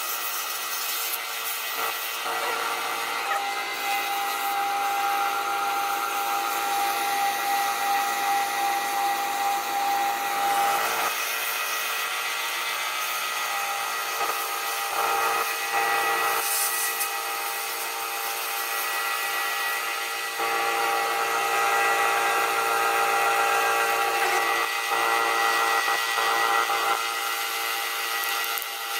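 Wood lathe running while sandpaper is held against the spinning wooden pipe handle to smooth it: a steady motor tone under an even rubbing hiss.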